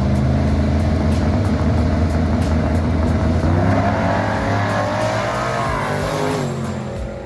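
A car engine running loud, then revving up, its pitch rising and then falling away over the last few seconds.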